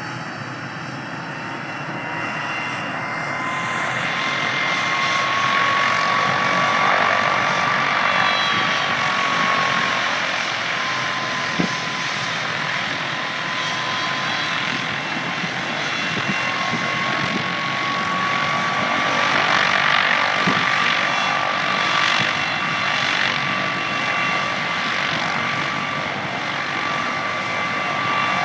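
MD 600N helicopter's turboshaft engine and rotor running at takeoff power as the fully loaded machine lifts off: a steady high whine over a loud rushing noise, the whine's pitch wavering slightly. It grows louder about three to six seconds in.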